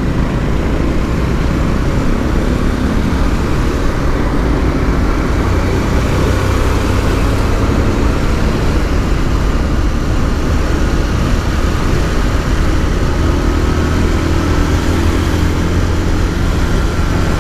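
Motorcycle riding noise: the bike's engine running steadily under a constant low rumble of wind on the microphone, with a faint wavering engine pitch near the end.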